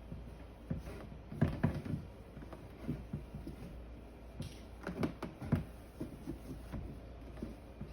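Irregular knocks and clatter of containers and fridge parts being handled and set down while a refrigerator is cleaned out, with a brief hiss about four and a half seconds in.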